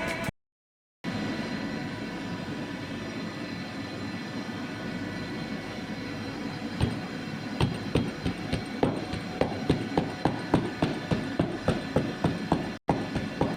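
Chicken frying in hot oil: a steady sizzle with sharp pops and crackles that come thicker in the second half.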